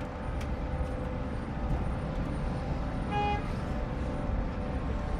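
Steady low rumble of aircraft jet engines with faint steady whining tones. About three seconds in there is one short horn-like beep.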